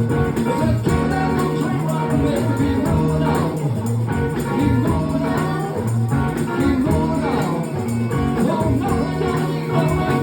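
Live band playing an instrumental stretch of a funk-rock song with a steady beat.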